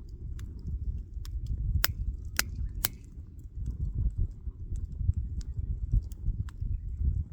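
Wood fire crackling, with irregular small pops and three sharp snaps close together about two to three seconds in, over a steady low rumble.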